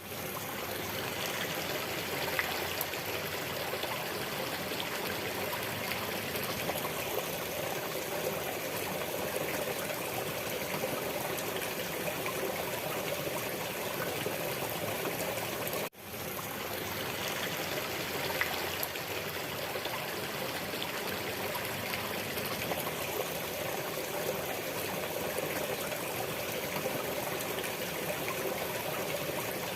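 Steady trickling and flowing water, like a small stream. About halfway through it cuts out for an instant and fades back in, like the seam of a looped recording.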